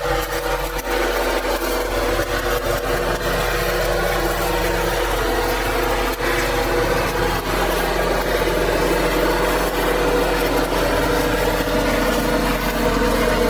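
Diesel engine running steadily, at or near idle.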